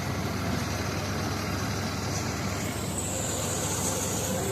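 Farmtrac 60 PowerMaxx tractor's diesel engine running steadily under load while driving a straw reaper, with the mechanical clatter of the machinery. A faint high hiss comes in about three seconds in.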